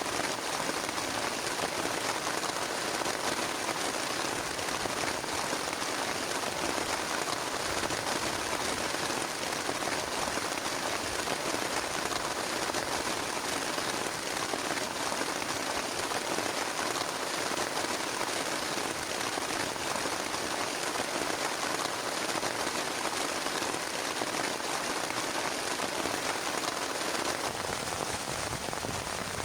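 Steady heavy rain beating on a plastic tarp, a dense, even noise with no thunder.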